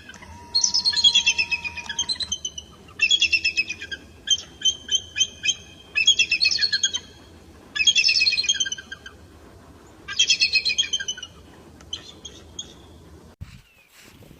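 Eagle calling in repeated bouts of rapid, high-pitched chittering, each bout about a second long. Six loud bouts are followed by a fainter, shorter one near the end.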